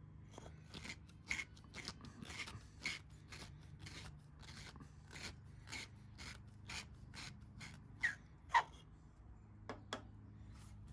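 Steel tang of a skew chisel being twisted back and forth in the hole of a maple handle, its sharp corners scraping out the wood to make it fit: a run of short rasping strokes about two a second, with two louder ones about eight seconds in.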